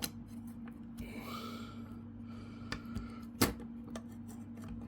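Light clicks and taps of the HP Pavilion G6 laptop's bottom access cover being handled and fitted onto the case, with one sharper click about three and a half seconds in, over a steady low hum.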